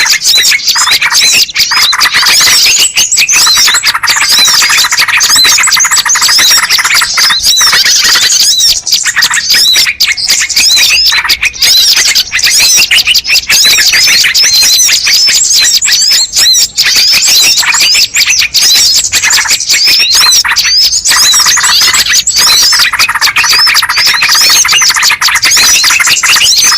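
Dense, continuous chirping and twittering of birds, many calls overlapping: a bird-lure recording made to draw wild birds in.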